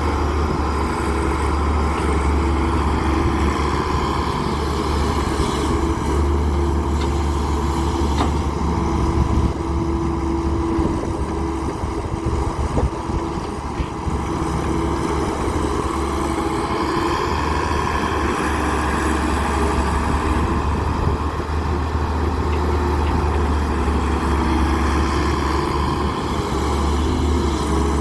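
Heavy diesel engine of a wheeled excavator running steadily at a constant speed, with a deep, even hum and no revving.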